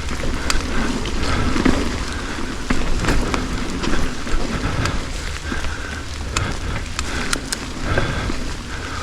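Riding noise on a wet trail: a steady rush of wind and rolling tyres, with scattered sharp clicks and rattles.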